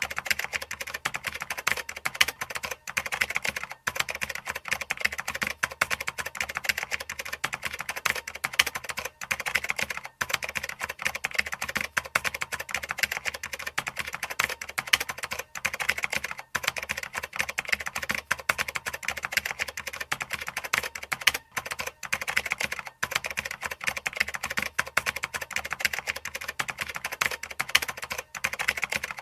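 Fast, continuous typing on a computer keyboard, a dense run of key clicks with a few brief pauses.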